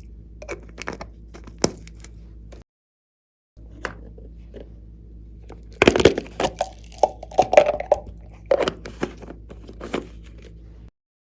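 Slime being worked by hand, giving sticky crackles and pops, with a denser run of crackling in the second half.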